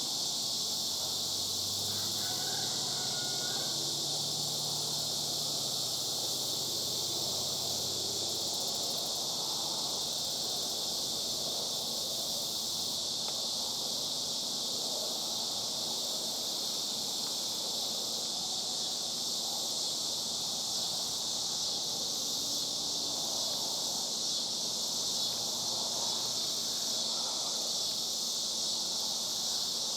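A steady, unbroken high-pitched insect drone from a chorus of cicadas, holding an even level throughout.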